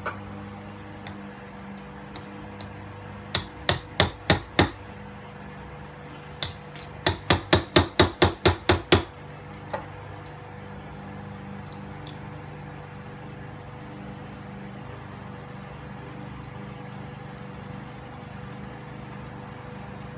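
Quick sharp taps or knocks on the heated end cap of a Traxxas 775 motor, struck to free its bushing. There are about five about three seconds in, then about ten more at roughly four a second between six and nine seconds. A steady low hum sits under them.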